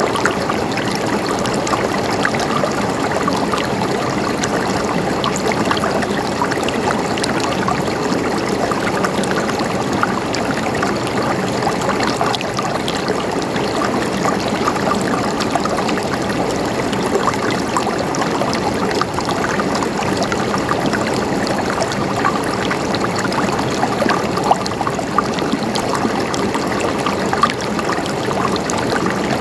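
Stream water flowing and gurgling, a steady rush with many small splashes and drips.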